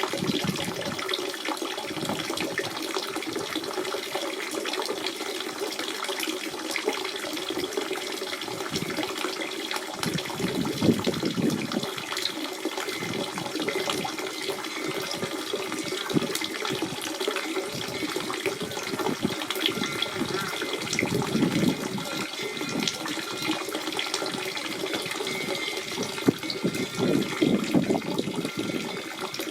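Natural spring water running and trickling steadily, a constant bubbling and splashing flow.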